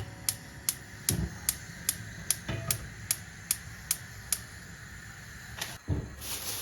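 Knife chopping vegetables on a cutting board: a steady run of crisp strokes, about two and a half a second, that stops after about four seconds, with a few duller knocks on the board and one near the end.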